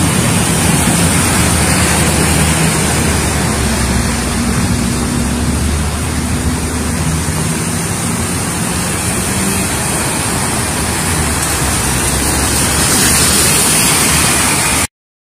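Steady rushing noise of rain and water as cars drive through a flooded street, with a low engine hum underneath for much of the time. It all cuts off suddenly near the end.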